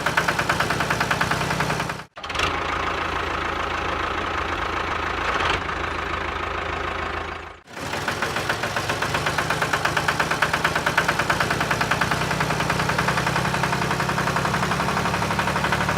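A small engine running steadily with a fast, even beat, dropping out briefly twice, about two seconds and seven and a half seconds in.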